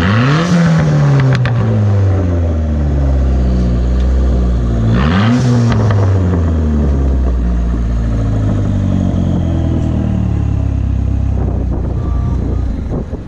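Modified Mopar car's engine running through an aftermarket exhaust with titanium tips, blipped twice, once at the start and again about five seconds in, and settling back to a steady idle between. The sound falls off near the end.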